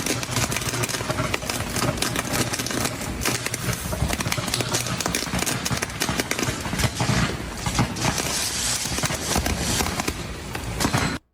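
Outdoor ice-storm recording: a steady rush of noise full of sharp crackles and pops, cutting off suddenly near the end.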